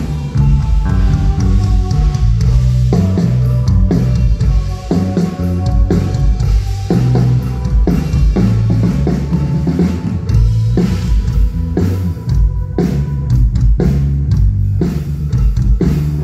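Full band playing loudly through a concert PA during a sound check: drum kit with kick and snare keeping a steady beat under bass and guitar.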